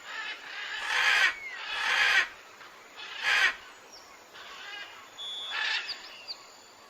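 Birds calling: three loud, short, harsh calls about a second apart, then softer calls and a few faint high chirps and whistles near the end.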